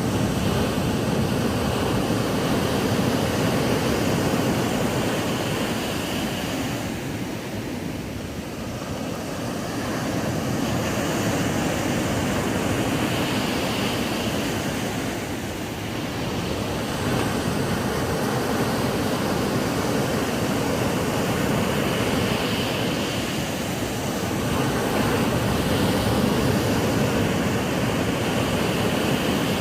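Ocean surf breaking on a sandy beach: a continuous rushing wash that swells and ebbs gently as waves come in, with softer lulls about every eight seconds.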